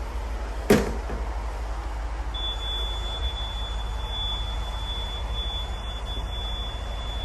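Caterpillar C18 inline-six diesel engine running steadily as it warms up, a deep continuous hum. A single sharp knock comes under a second in, and a thin, steady high-pitched tone starts about two seconds in and holds.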